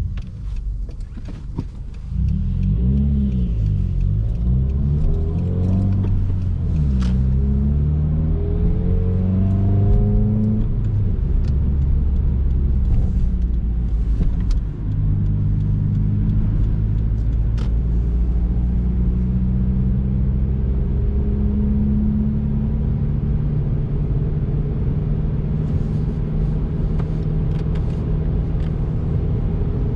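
2019 Subaru WRX's turbocharged flat-four engine accelerating through the gears. Its pitch climbs and drops with each shift over the first ten seconds or so, then holds steady at cruise over a low road rumble.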